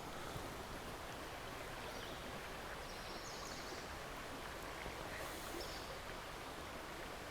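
Steady rush of flowing river water, with a few faint high chirps in the middle.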